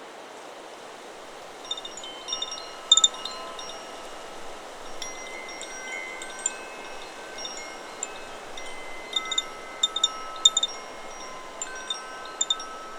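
Chakra Chimes 'Solar Plexus' wind chime stirred by the wind: its tubes clang in irregular clusters starting about two seconds in and ring on in long overlapping tones at a few fixed pitches. A steady wind hiss runs underneath.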